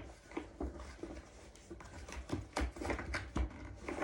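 A new dust bag being pushed and fitted into a Henry vacuum cleaner's drum: a sharp knock at the start, then scattered light knocks and rustles.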